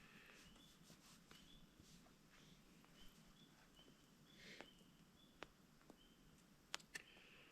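Faint outdoor ambience: short high chirps repeating every half second or so, with scattered soft clicks and two sharper clicks near the end.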